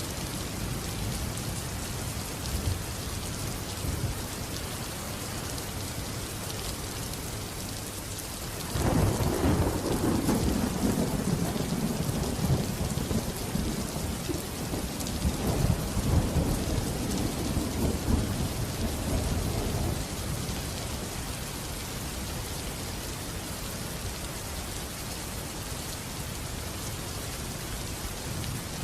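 Steady rain falling, with a roll of thunder that breaks in suddenly about a third of the way through and rumbles on in swells for around ten seconds before fading back to rain alone.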